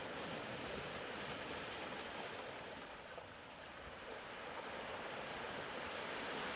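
Faint ocean surf ambience: a soft, steady wash of waves that ebbs a little midway and swells again.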